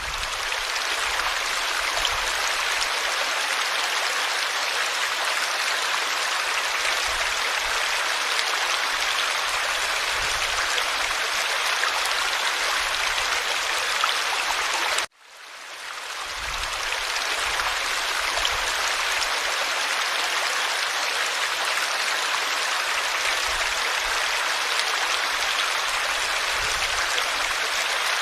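Forest stream flowing over rocks, a steady even rush of water. About halfway through it cuts out suddenly for an instant and fades back in over a second or two.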